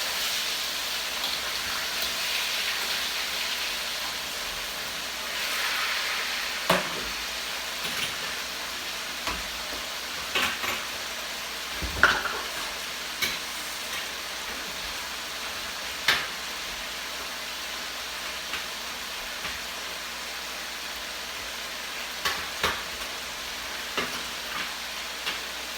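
Cabbage for egg roll filling sizzling as it is stir-fried in a hot pan with soy and oyster sauce. The sizzle is louder over the first few seconds. A cooking utensil knocks against the pan a dozen or so times.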